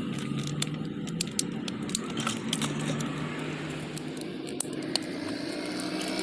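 Light metallic clicks and rattles of small parts or tools being handled, scattered irregularly, over a low steady hum.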